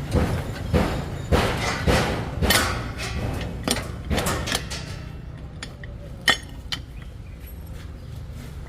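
Irregular metallic knocks and clinks of hand tools on vehicle parts during a repair, denser in the first few seconds, with one sharp strike about six seconds in.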